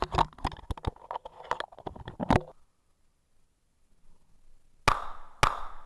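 Clicks and rustling of a case being handled and shut around the recorder, then, after a pause, two pistol shots from a Colt 1991 about half a second apart, muffled from inside the case.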